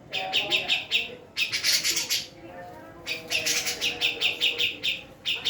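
Female cucak jenggot (grey-cheeked bulbul) calling in rapid runs of short chirping notes, about eight a second. A brief harsh, noisy burst comes about a second and a half in, and a short pause follows before the runs resume.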